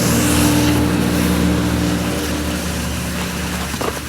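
An engine running steadily, a low hum that holds one pitch and eases off slightly after the midpoint.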